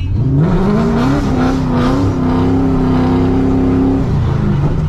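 Chevrolet Corvette V8 revving up sharply in about a second and holding at high revs for about three seconds in a drift, then dropping off near the end.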